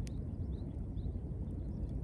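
Wood campfire burning: a steady low rumble with a few sharp crackles and pops.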